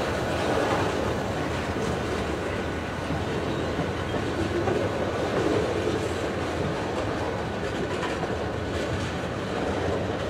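A train rolling past, its wheels running on the rails in a steady, continuous rumble.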